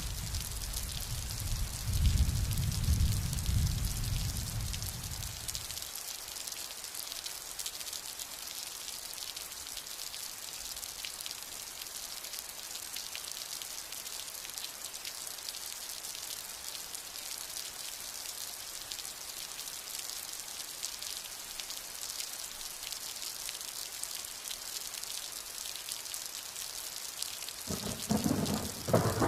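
Steady rain with thunder. A low rumble rolls through the first few seconds and dies away about six seconds in, then a sharper, louder thunderclap breaks near the end.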